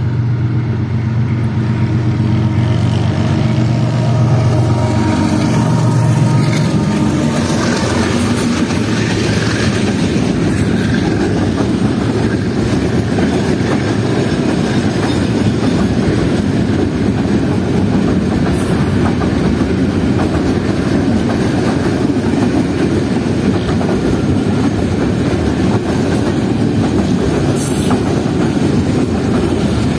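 Two diesel locomotives in tandem run past close by, their engines loud and steady for the first several seconds. A long container freight train then rolls past with continuous wheel rumble and clickety-clack over the rail joints, and a few brief wheel squeals.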